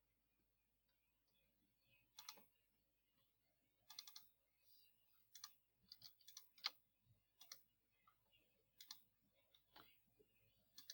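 Faint computer mouse clicks, scattered irregularly, several in quick pairs and threes.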